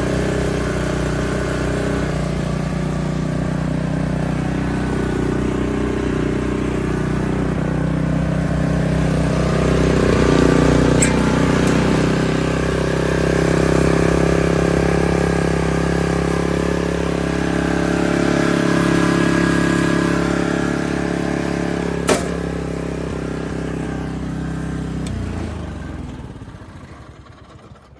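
Kubota GH170-1 single-cylinder petrol engine of a Canycom ES633 three-wheeled ride-on carrier running, its speed rising and falling slightly. A sharp click about three quarters of the way through, then the engine winds down and stops near the end.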